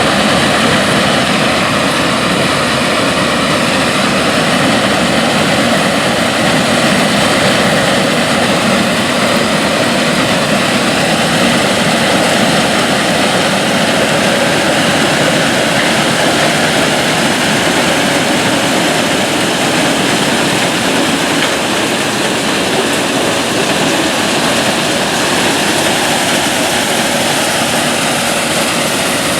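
Combine harvester running steadily while harvesting corn: an even, dense drone of engine and threshing machinery.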